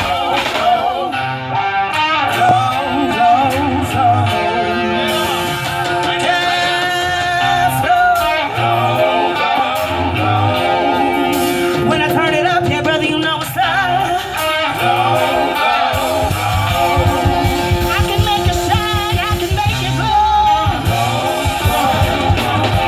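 A live band playing a song, with a singer over guitar and a steady low beat.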